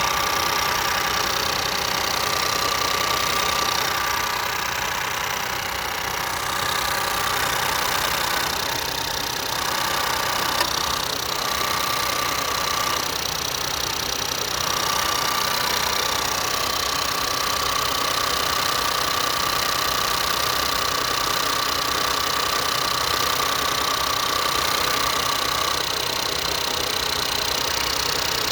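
Ford 1.0 EcoBoost three-cylinder turbocharged engine idling steadily, with a high whine over it that drops out briefly a few times. There is a single sharp tick about ten seconds in. This is the unidentified noise the owner is tracking down.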